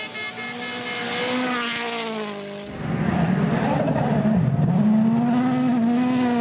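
Rally car engines at high revs on gravel stages, the pitch rising and falling with gear changes. About two and a half seconds in, the sound switches abruptly to a louder, deeper engine note over a hiss of gravel and tyres; it dips briefly, then holds high and steady.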